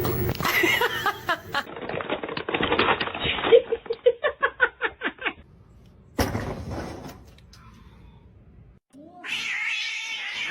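Domestic cat meowing and yowling: a run of short repeated calls in the first half, then a longer drawn-out meow near the end.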